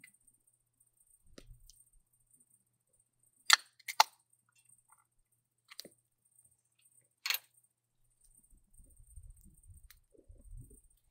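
Several sharp clicks or taps: a loud pair about half a second apart, then another a few seconds later, followed by soft low handling noise.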